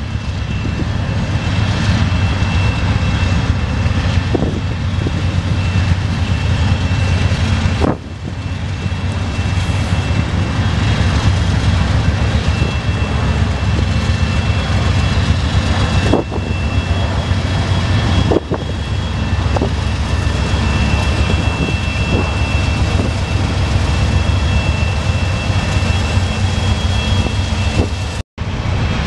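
Norfolk Southern freight train passing close by. Its diesel locomotives are running under load with a heavy, steady low rumble, then the freight cars roll by over the rails, with a thin steady high tone above the rumble. The sound breaks off briefly near the end.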